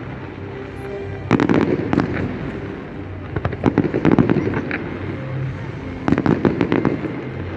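Fireworks going off: clusters of sharp bangs and crackles about a second in, around the middle, and near the end, over a continuous low rumble.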